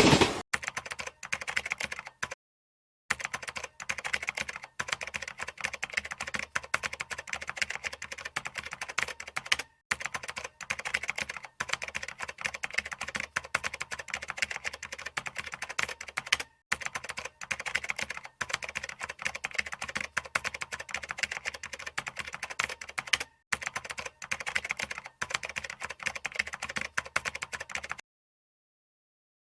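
Rapid computer-keyboard typing clicks in an unbroken run, cut by a few short stretches of complete silence.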